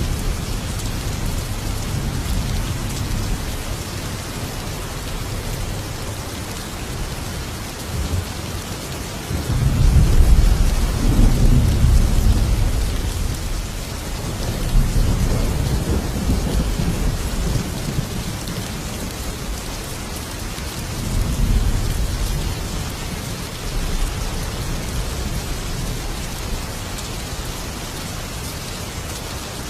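Thunderstorm: steady heavy rain with rolling thunder, the loudest rumble swelling about a third of the way in and weaker rumbles following several times after.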